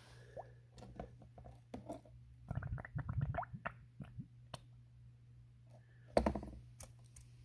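Small gurgles, plops and clicks of water around a glass bottle soaking in a bucket of soapy water, with a louder thump about six seconds in.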